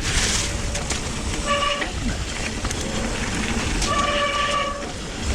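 Electric mountain bike ridden along a soaked, waterlogged trail: a steady rushing noise of tyres through water and mud. Twice, about one and a half and four seconds in, a short steady horn-like toot cuts through.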